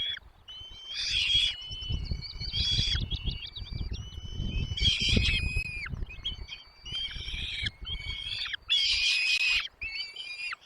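Small birds at a nest calling over and over, high calls that often slide down at their ends and come in dense bursts, typical of chicks begging for food. A low, uneven rumble runs underneath.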